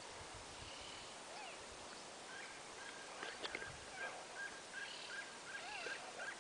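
Faint bird calls: a bird repeats a short note about three times a second from about two seconds in, with a few other brief chirps.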